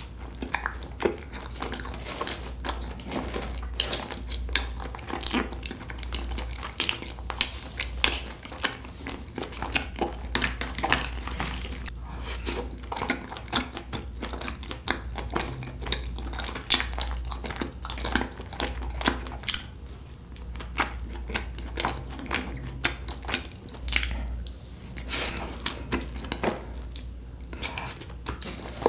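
Close-miked eating: a person chewing with wet mouth sounds, broken by many short clicks and taps of cutlery and dishes, over a steady low hum.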